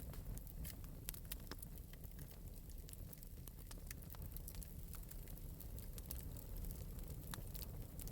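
Fire crackling in an open metal fireplace: irregular, sharp pops and ticks over a low, steady rumble.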